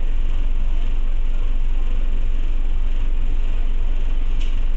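Steady low engine rumble of a Scania OmniCity single-deck bus, heard from inside the passenger cabin, with a brief click about four and a half seconds in.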